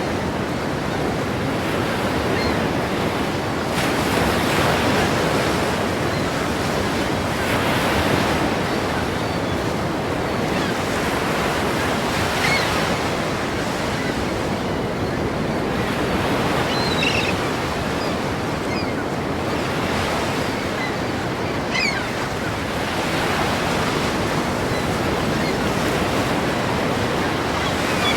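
Ocean waves breaking on a shore, a continuous wash of surf that swells about every four seconds.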